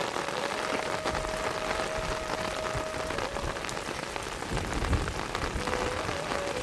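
Steady rain falling, a dense patter of drops, with a brief low rumble about five seconds in.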